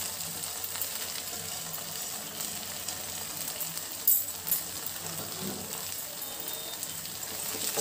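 Thick masala gravy sizzling softly in a nonstick kadhai with pieces of grilled chicken in it, with two sharp clicks about four seconds in.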